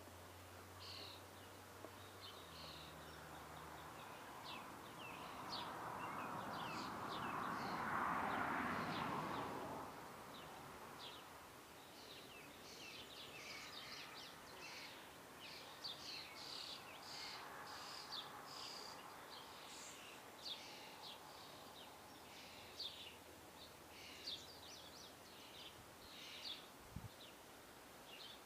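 Small birds chirping and calling in many short, high notes, busiest in the second half. A soft rushing noise swells and fades in the background, loudest about eight seconds in.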